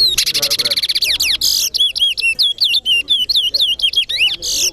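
Caged towa-towa (chestnut-bellied seed finch) singing a competition song: a fast trill, then a run of clear, arching whistled notes at about three to four a second, ending in a short buzzy burst.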